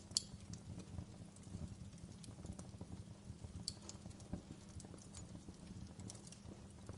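Wood fire burning in a fireplace, crackling with irregular small pops over a low steady rumble of the flames; one sharper pop comes just after the start.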